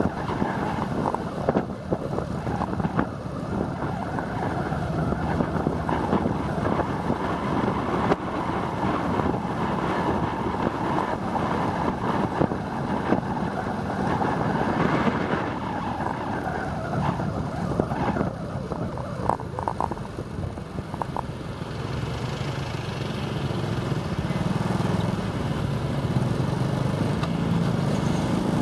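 Motorbike riding in town traffic: the engine runs under wind rushing over the microphone. Near the end the engine note climbs as the bike speeds up.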